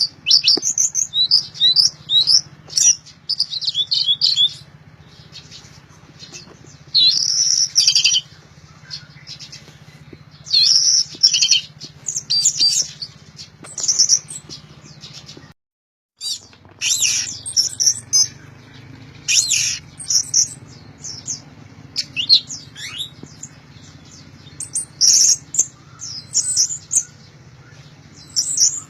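Orange-headed thrush singing loudly in repeated bursts of rapid, high, varied phrases with short pauses between them, a bird in full song. A steady low hum runs underneath, and the sound cuts out for a moment about halfway through.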